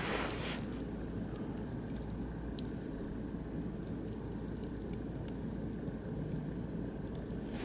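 Oak and beech wood fire burning in a barbecue grill, crackling with scattered small pops over a steady low rush, one sharper pop about two and a half seconds in.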